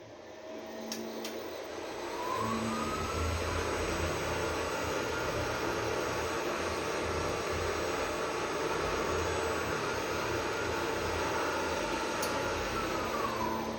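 Machine-room traction elevator making a run: a whine rises over the first three seconds or so, holds steady over a constant rushing hum, then falls away as the car slows near the end.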